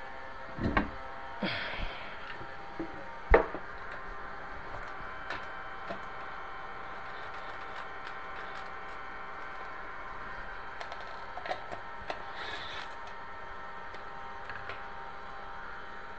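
Scattered knocks, clicks and short scrapes of hands working on a kitchen cabinet and its pull-out basket rail hardware. The loudest is a single knock about three seconds in, over a steady low hum.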